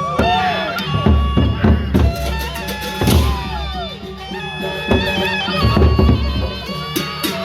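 Loud procession music: a reedy wind-instrument melody with held notes and sliding pitches over drums.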